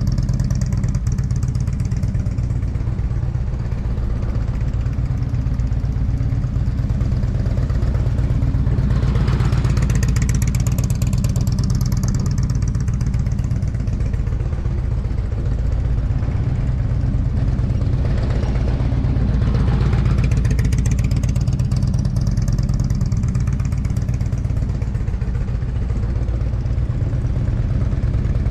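Motorcycle engine running steadily at low speed, swelling louder and brighter twice, about nine and nineteen seconds in.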